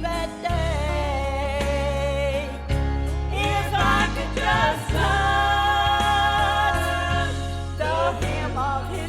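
A woman sings a gospel song with vibrato over a backing accompaniment with a steady bass line, holding one long note near the middle.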